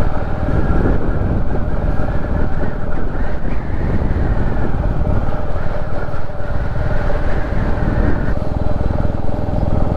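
Royal Enfield Classic 350's single-cylinder engine running steadily under way, its exhaust pulsing in a low thump. The sound thins a little about eight seconds in.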